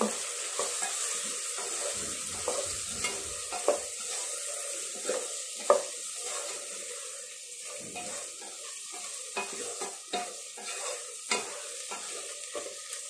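Chicken frying with chilli powder in a non-stick pot, sizzling steadily, while a wooden spatula stirs it with irregular scrapes and light knocks against the pot; the sharpest knock comes about six seconds in.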